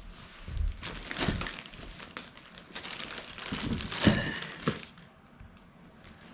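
Plastic packaging crinkling and rustling as it is handled, with a few sharper handling knocks, dying down about five seconds in.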